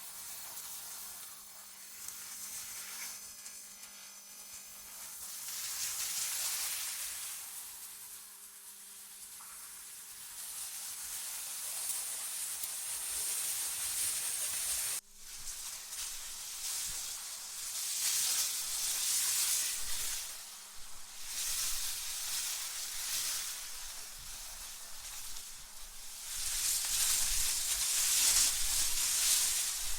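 Generated wind noise: a high, airy hiss that swells and fades in gusts every few seconds, growing stronger near the end. About halfway through it cuts out abruptly for an instant. A faint steady low hum runs under the first half.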